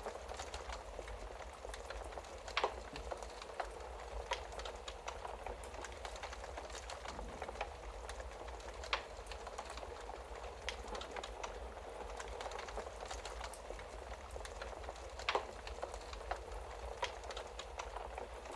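Wood fire crackling in a fireplace: a steady hiss of burning with scattered sharp pops and snaps. The loudest pops come about three, nine and fifteen seconds in. A low steady hum runs underneath.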